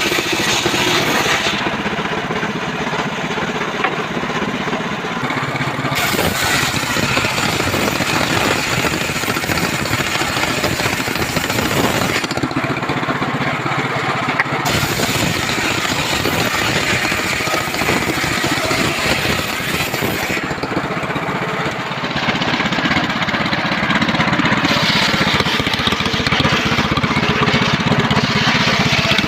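An engine-driven mobile circular sawmill running loudly and steadily while it saws trembesi (rain tree) wood. Its high, hissing edge fades and comes back three times.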